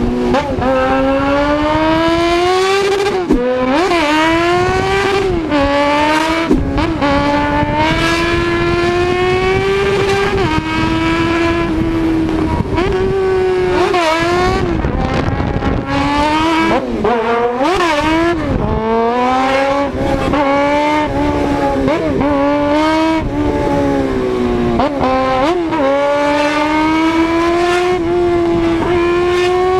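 A car engine running hard at high revs through a loud aftermarket exhaust. Its pitch holds high with repeated quick dips and recoveries, several of them a few seconds apart, as it changes gear or lifts off and gets back on the throttle.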